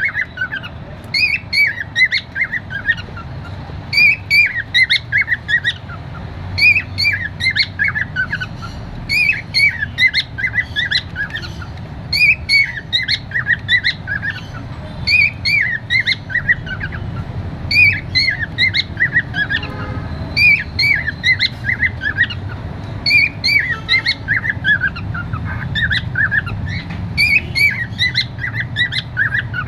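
Cockatiel singing: the same short phrase of quick, falling chirps repeated over and over, about every three seconds.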